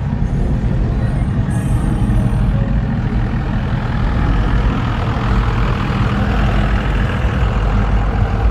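Pickup truck engine idling loud and steady close by, a low, even running note with no revving.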